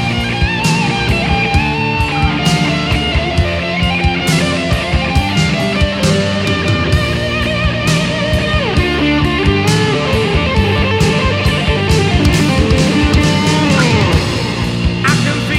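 Heavy metal band playing an instrumental passage: electric guitars, bass and drum kit, with a guitar line sliding down in pitch about halfway through and again near the end.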